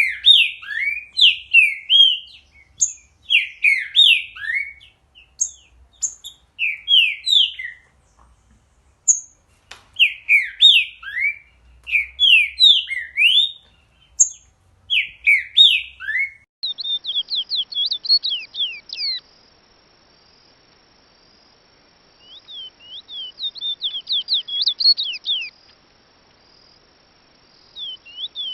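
Songbirds singing. First, phrases of quick, sweeping whistled notes come with short pauses between them. About two-thirds of the way through, the sound switches to another bird's song: rapid high notes in bursts, with silent gaps.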